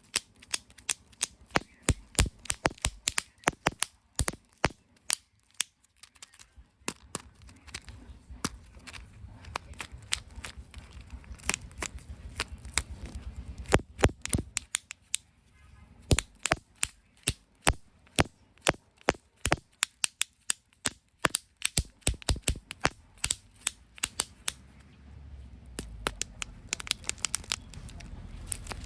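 Plastic surprise eggs and toys being handled and snapped open: a dense run of sharp, irregular clicks and crackles, several a second.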